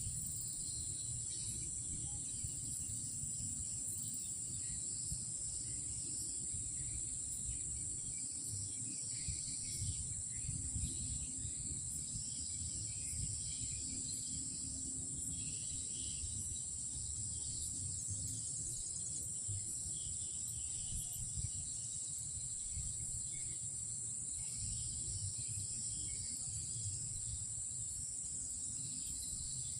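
Night insects droning: a steady high-pitched insect chorus with fainter, uneven chirping below it, over a low rumble.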